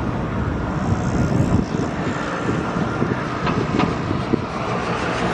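Electric-hauled train passing on the track: a steady rumble and roar of wheels on the rails, with two sharp clicks about three and a half seconds in.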